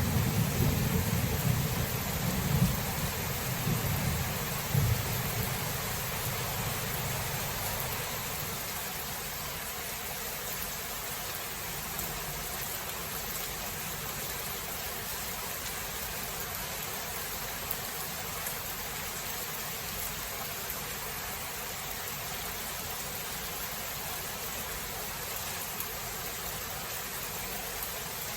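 A rumble of thunder dying away over the first several seconds, with a couple of swells, over steady rain that goes on alone after that.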